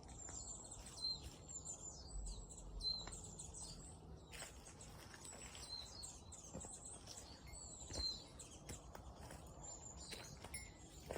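Small birds calling with repeated high, thin chirps, among a few soft knocks, with a faint low rumble in the first few seconds.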